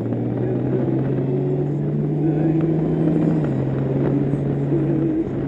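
Honda Gold Wing's flat-six engine running as the motorcycle pulls away and accelerates, with road and wind noise. Its pitch climbs slightly, then drops about three and a half seconds in, as at an upshift.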